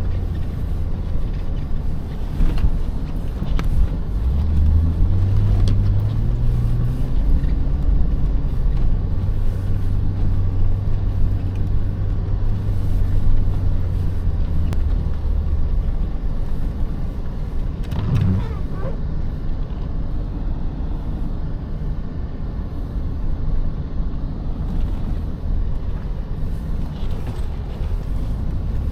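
Off-road truck engine running as it drives through deep snow. The revs rise about five seconds in, hold steady for a while, then rise briefly again about eighteen seconds in.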